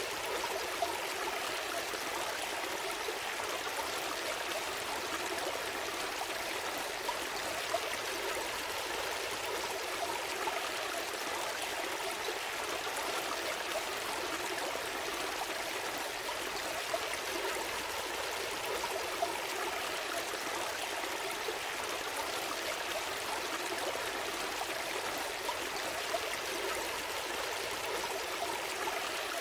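Forest stream flowing steadily over stones, a continuous babble and trickle of water.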